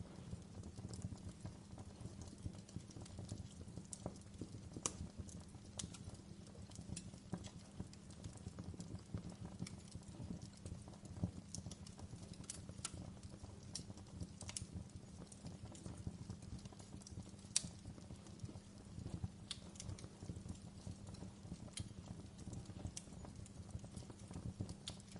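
Wood fire burning in a fireplace, crackling with irregular sharp pops over a steady low rumble of the flames; one pop about two-thirds of the way through is the loudest.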